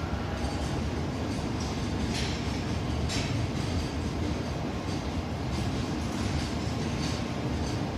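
Freight train hauled by an ED76 electric locomotive pulling out, its wheels rumbling steadily on the rails, with short clicks every second or so.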